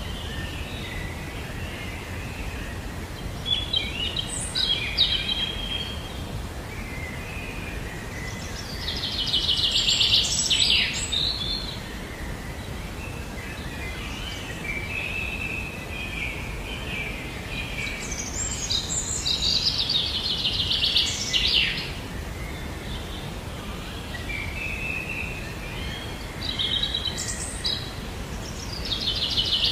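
Songbirds singing over a steady low outdoor background noise: a bird sings a rapid trilled phrase about every six to ten seconds, about five times, with softer chirps in between.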